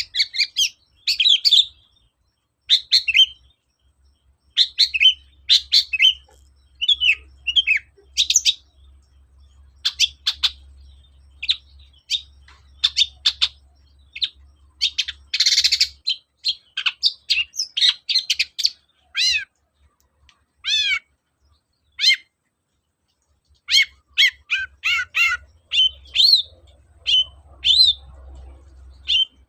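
Long-tailed shrike (cendet) in full song: rapid runs of sharp chirps and whistled notes, some sweeping downward, with a harsh rasping burst about halfway through.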